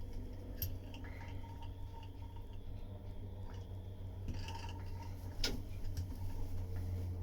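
Quiet work on wet fiberglass laminate: a tool pressing resin into glass cloth, with a few light clicks and a brief scratchy rustle, over a steady low hum.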